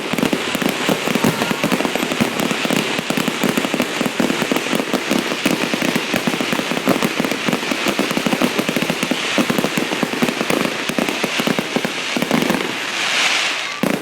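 Fireworks going off in a dense, continuous crackle of many small rapid bangs. Near the end the crackle gives way to a hissing rush.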